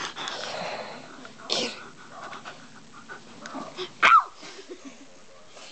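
A small dog making odd vocal noises: a breathy rasp at the start, a short burst about a second and a half in, and a short, sharp squeal about four seconds in that drops in pitch, the loudest sound here.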